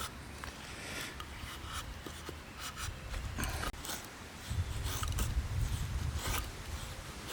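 Knife blade shaving thin curls off a stick of firewood to make a feather stick, a series of short scraping strokes; the wood is hard and resists the blade. A low rumble joins in about four and a half seconds in and lasts about two seconds.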